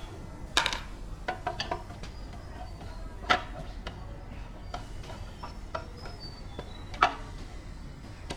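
A few sharp metallic clinks and knocks, spaced irregularly with a small cluster early on and a louder one about a third of the way in, like tools and metal parts being handled during work on an air compressor. Faint bird chirps sound in the background.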